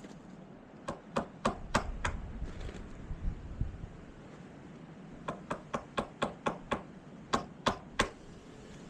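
Hammer driving nails, in three runs of quick, sharp blows about three to four a second: five blows, then seven, then three.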